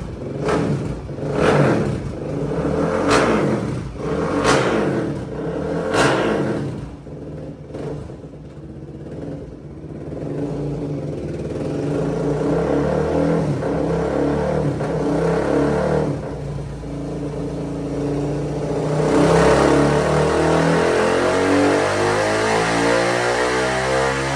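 Suzuki DR-Z400 single-cylinder four-stroke engine with an MRD exhaust on a dyno, blipped to sharp revs about every second and a half, then dropping to idle. It then runs at a steady speed before winding up in a long, steadily rising pull near the end.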